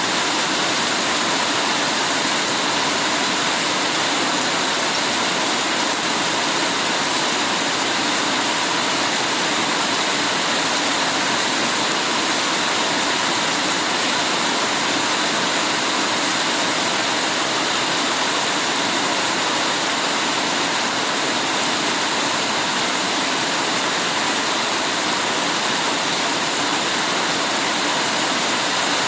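Heavy rain falling steadily: a dense, even hiss of water with no single drops standing out.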